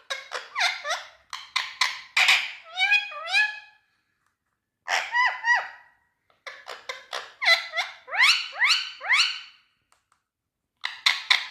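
Indian ringneck parakeet calling: runs of short, shrill, pitched calls with quick upward glides, broken by two pauses of about a second.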